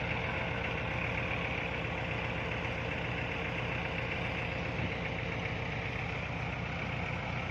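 Kubota L5018 tractor's diesel engine running steadily close by, with a fast even firing pulse.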